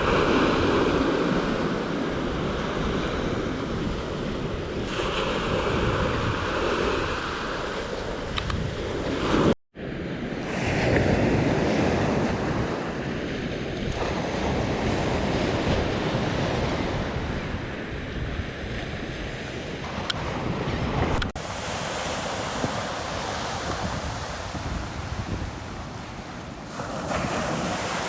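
Surf breaking and washing on a beach, with wind buffeting the microphone. The sound drops out for an instant about ten seconds in where the recording cuts. About twenty-one seconds in it changes abruptly to a thinner, hissier wash of waves.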